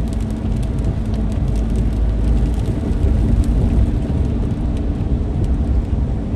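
Inside a car driving in a heavy rainstorm: steady low road and engine rumble, with rain hitting the car and a few scattered sharp ticks of drops on the body.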